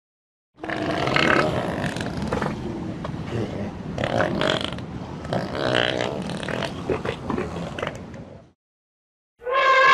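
Elephant vocalising with low, guttural rumbles and grunts for about eight seconds, starting a little after the beginning and cutting off abruptly near the end.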